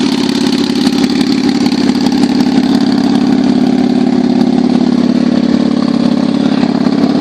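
1996 Kawasaki Vulcan 800's V-twin engine idling steadily through aftermarket exhaust pipes.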